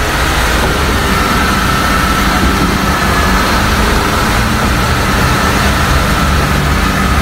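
2009 Mercedes SLK200's supercharged 1.8-litre four-cylinder engine idling steadily just after starting, a low rumble with a thin steady whine running above it.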